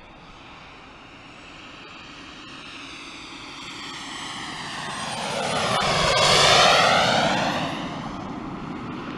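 RC model Eurofighter jet flying a slow pass: its engine noise grows louder, peaks about six and a half seconds in as it goes by, then fades, with a sweeping whoosh as it passes.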